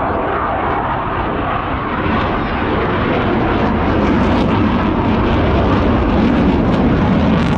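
Military aircraft flying past in an air display, a loud steady engine noise that slowly grows louder.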